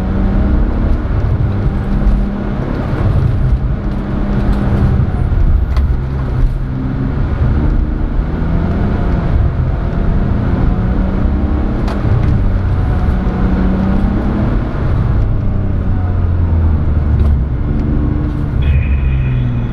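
Car engine heard from inside the cabin, its revs rising and falling again and again as the car accelerates and slows around a circuit, with tyre noise on wet asphalt.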